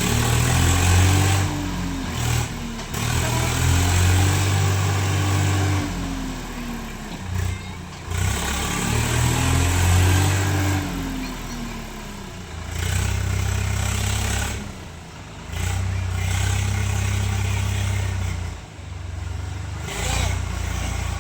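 Swaraj 855 FE tractor's diesel engine working hard, its pitch swelling up and falling back in several long arcs of a few seconds each, under a constant rushing noise.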